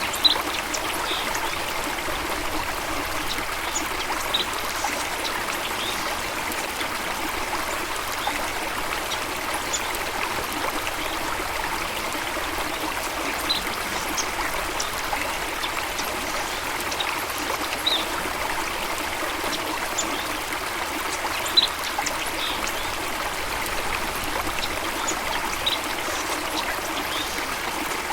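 Steady rushing of flowing water, with short high bird chirps scattered throughout.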